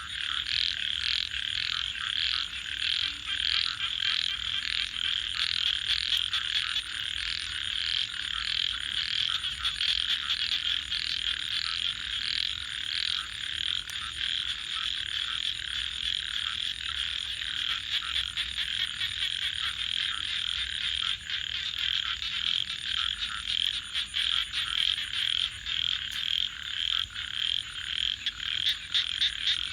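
A chorus of frogs calling continuously, with one call repeating about twice a second through roughly the first half, over a steady high-pitched trill.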